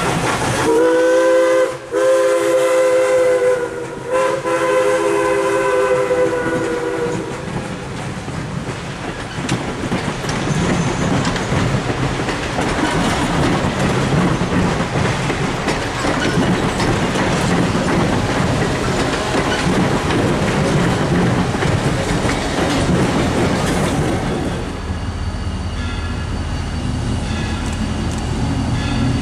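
A steam locomotive's chime whistle, CNJ 0-6-0 #113's, blows one long chord of several notes with a slight waver, lasting about six seconds. Then the passenger and open-air cars roll past with a steady clatter of wheels over rail joints. Near the end the sound changes to a steadier low rumble.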